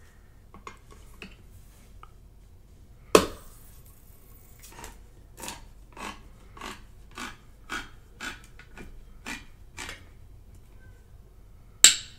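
Close-miked chewing of slimy cooked spinach: short chews about twice a second for several seconds. A sharp, loud mouth click comes about three seconds in and again near the end; these are the loudest sounds.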